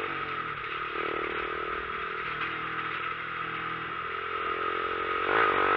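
Motorcycle engine running steadily with wind and road noise. The engine note climbs and gets louder near the end as the bike accelerates.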